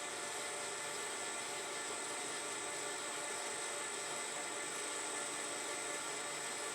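Steady background hum and hiss of a workshop, with a thin high-pitched whine throughout and no distinct events.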